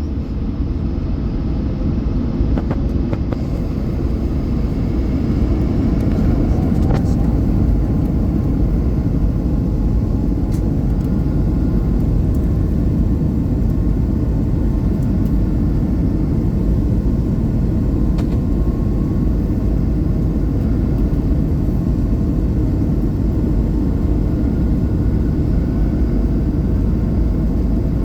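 Airplane engines and a heavy low rumble during takeoff, building over the first several seconds, then holding steady and loud.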